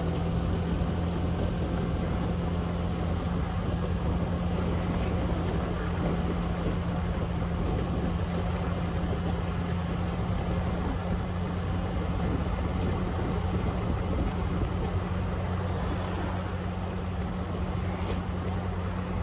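Motorbike engine running at a steady speed while riding, with a constant hum and a rush of road and wind noise.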